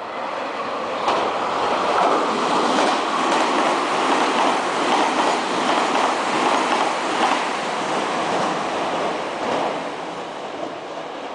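Meitetsu electric train running past on the rails: its noise swells over the first second or two, holds steady, then fades near the end, with faint clicks of the wheels over rail joints.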